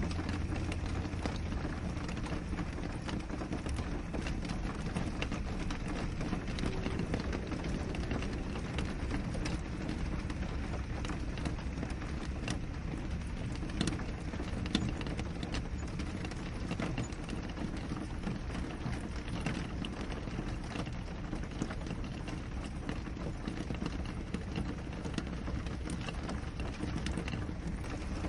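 Steady rain on a window: a dense patter of small drop ticks over an even hiss, with a steady low rumble underneath.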